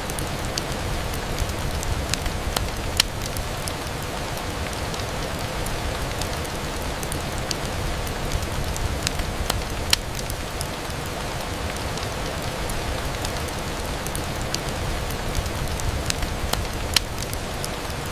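Steady rain on a window, with scattered sharp ticks throughout and three louder ones spaced several seconds apart.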